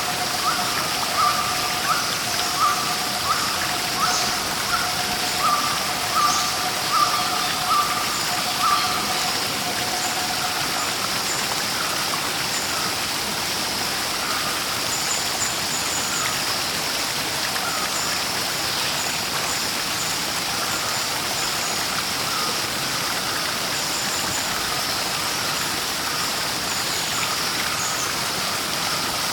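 Steady rush of flowing water from a stream or small waterfall. Over it, a bird calls in short repeated notes, about three every two seconds, clearest in the first nine seconds and fainter after. Faint high chirps come in later.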